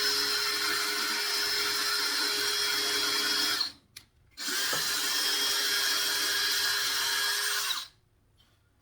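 Power drill driving screws into wooden 2x2s: two steady runs at an even pitch, the first stopping about three and a half seconds in, the second starting just after and cutting off near the end.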